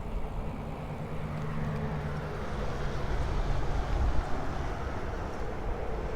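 Riding noise from a Maxtron Mule folding e-bike in motion: a steady low rumble of wind on the microphone and tyres rolling, with a faint steady hum under it.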